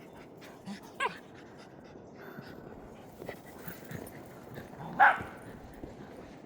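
A dog gives two short, high yips, a smaller one about a second in and a louder one about five seconds in.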